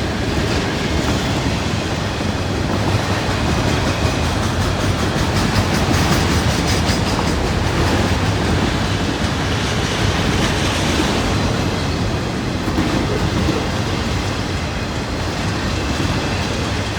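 Norfolk Southern freight train rolling past steadily, its car wheels clattering over the rails.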